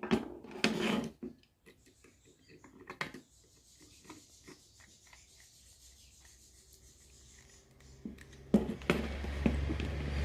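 Hands working wires into the terminals of a switchboard's fuse carrier, switch and socket: rubbing and scraping, a few light clicks, then a couple of sharper knocks near the end, when a low steady rumble starts.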